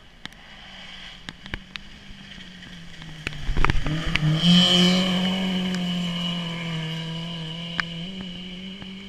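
A race car passing at speed on a gravel forest track: its engine note builds as it approaches, is loudest about four seconds in, drops slightly in pitch as it goes by, then slowly fades away. A few sharp clicks are scattered through it.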